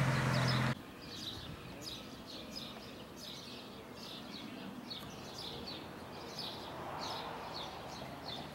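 A car's engine running, which cuts off suddenly under a second in. Then a small bird chirps over and over, a steady run of short high chirps over faint background noise.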